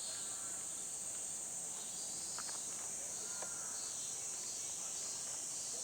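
Steady high-pitched insect chorus, with faint distant voices now and then.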